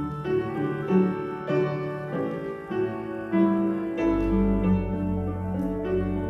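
Slow keyboard music of sustained chords, played as service music, with a deep bass note entering about four seconds in.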